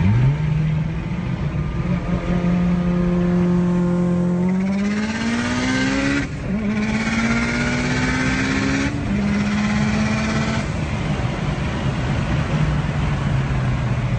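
Big-turbo Mitsubishi Lancer Evolution's turbocharged four-cylinder engine pulling hard under acceleration, heard from inside the cabin. The revs climb through two gears, with short breaks at the upshifts about six and nine seconds in, then settle to a steady cruise.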